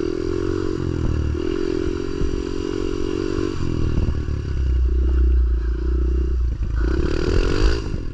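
Pit bike engine revving in about four throttle bursts, its pitch climbing and falling between them, as the rider tries to pull wheelies.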